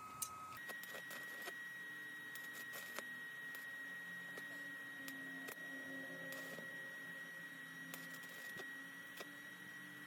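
A faint steady high-pitched tone that steps up in pitch about half a second in and then holds, with scattered light clicks.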